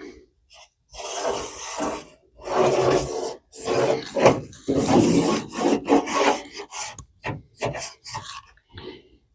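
A felt-tip marker dragged in repeated strokes over rusty sheet-metal floor pan, making a dry rubbing scrape. The strokes are longer at first and shorter and quicker near the end.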